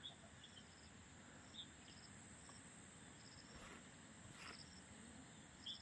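Near silence with faint, high insect chirps now and then.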